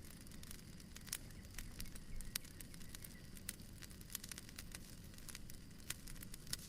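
Fireplace fire crackling softly: irregular sharp pops and snaps over a low, steady rumble of flame.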